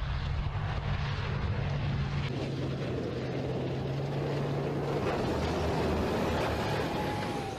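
Heavy vehicle engine running steadily, a dense rumble over a low hum, starting and cutting off abruptly.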